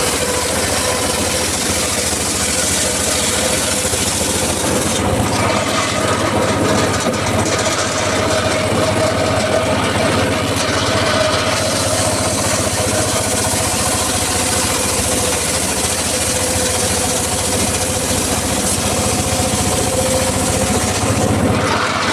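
Engine-driven portable circular sawmill running steadily, its motor and spinning blade keeping up a continuous drone with a steady whine.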